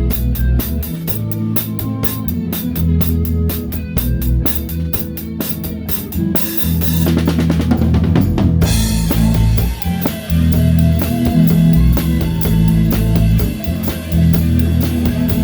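Live band playing, with the drum kit loudest: a Pearl kit with a towel-dampened snare keeps a steady cymbal-and-kick groove over bass and guitar. About six seconds in the beat breaks into a fill, and about two and a half seconds later a long cymbal wash starts.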